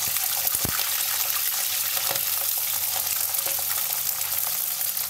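Cauliflower florets frying in hot mustard oil in a kadhai: a steady, dense sizzle with small crackling pops.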